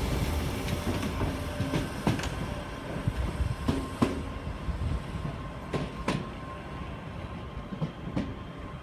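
Tangara electric train pulling away, its wheels clicking over rail joints at irregular intervals. The running noise fades steadily as the train recedes.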